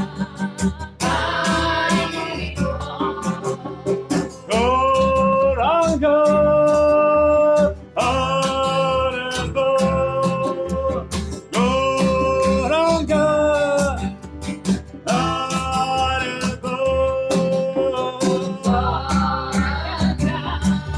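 Kirtan: voices singing a devotional mantra chant in long held notes over steady acoustic guitar strumming.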